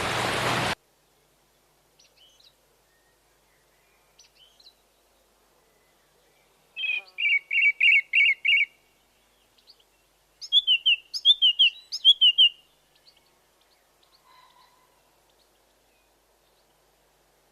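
A songbird singing: two phrases of short repeated notes, the second made of quick falling notes, with a few faint chirps before them. A loud steady hiss cuts off abruptly less than a second in.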